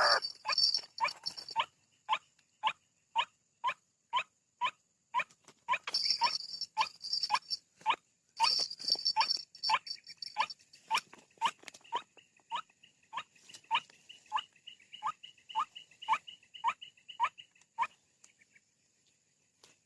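White-breasted waterhen 'ruak-ruak' calls, the kind used as a lure to draw the birds out of cover: a monotonous series of short notes repeated about twice a second, stopping a couple of seconds before the end.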